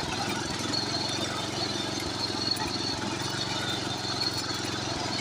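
Tractor engine running steadily with an even, fast firing rhythm.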